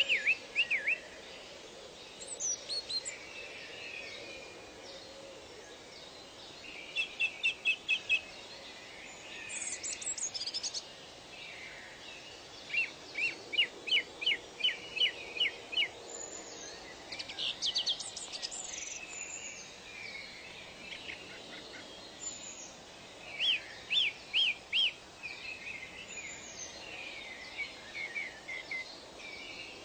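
Several birds singing: phrases of quick repeated chirps, several notes a second, with higher sweeping calls in between, over steady background noise.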